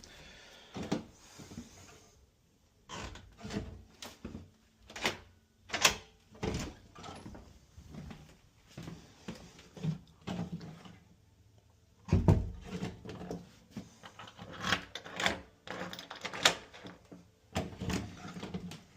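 Irregular clicks, knocks and clatters of tools and door hardware being handled, with a heavier thump about twelve seconds in.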